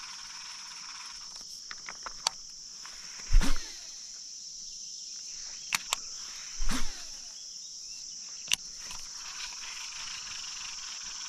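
Steady high-pitched chorus of insects, with two dull thumps about a third and two thirds of the way through and a few sharp clicks.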